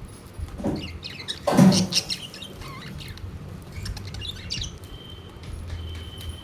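Pet budgies chirping and chattering, with a louder burst of sound about a second and a half in and a thin, steady high whistle near the end.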